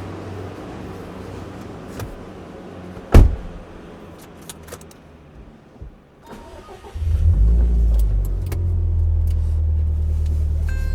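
A loud single thump about three seconds in, a few light clicks, then the Subaru Impreza WRX STI Spec C's turbocharged flat-four, fitted with an A-RM aftermarket muffler, starts about seven seconds in, flares briefly and settles into a steady idle.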